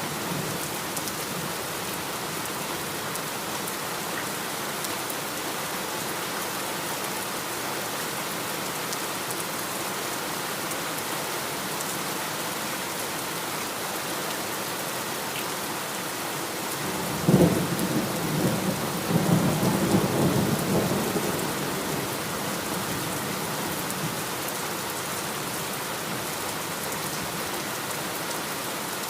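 Steady heavy rain falling on a surface, with a thunderclap about two-thirds of the way through: a sharp crack followed by rumbling that dies away over about five seconds.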